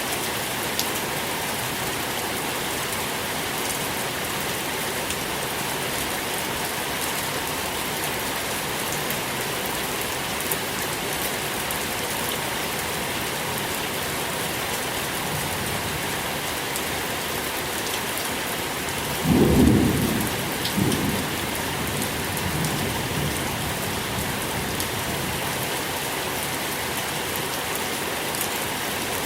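Steady rain falling, with a short, low rumble of thunder about two-thirds of the way through and a smaller second rumble a second later.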